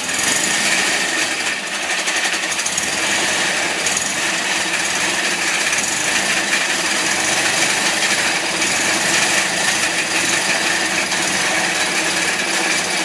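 Fiat 126 650cc air-cooled two-cylinder engine running steadily on a bench on its first run after a full rebuild with new bearings and rings, with a loud rattle from the Workmate bench it is bolted to.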